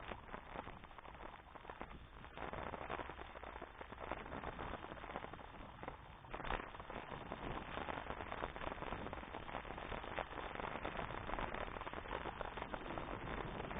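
Bicycle riding noise: a steady crackle of many small clicks and crunches from the tyres and bike on the track, growing louder about six and a half seconds in.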